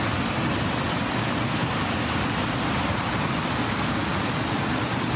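Torrential rain pouring down as a steady, loud hiss.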